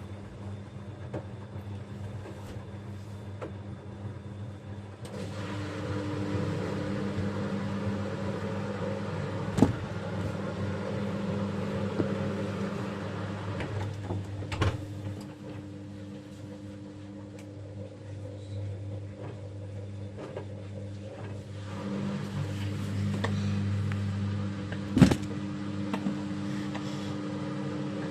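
Bosch Avantixx 6 front-loading washing machine running its quick 15-minute wash: a steady motor hum with the drum turning, growing louder about five seconds in, easing off, then rising again near the end, with a few sharp knocks along the way.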